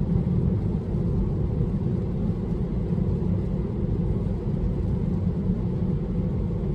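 Steady low road and tyre rumble heard inside a Tesla electric car's cabin while it drives along.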